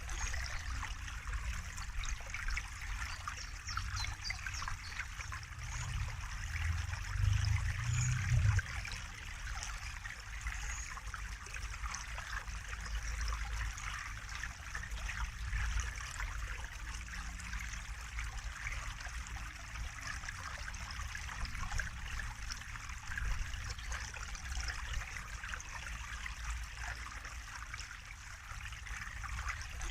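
Water trickling and flowing steadily, a continuous even rush with fine splashing detail. A low rumble swells briefly about a quarter of the way through.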